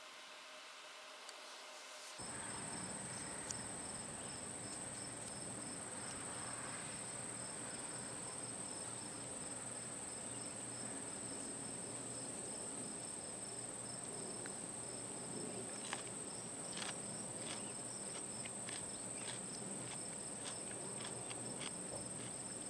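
Crickets chirping steadily, a high constant trill that starts abruptly about two seconds in. A few faint clicks come in the second half.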